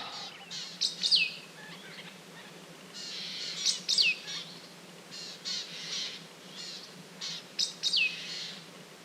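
A bird singing the same short phrase three times, a few seconds apart: a cluster of high chirps ending in a quick whistle that slides down in pitch.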